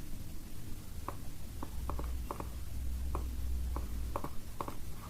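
Computer mouse clicking, about ten short clicks at uneven intervals over a low steady hum.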